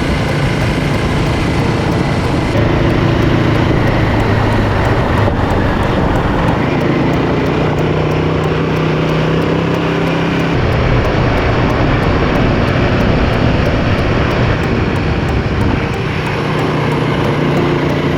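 Royal Enfield Himalayan 450's single-cylinder engine running while the motorcycle is ridden, a steady drone whose pitch shifts a few times with throttle and gear changes.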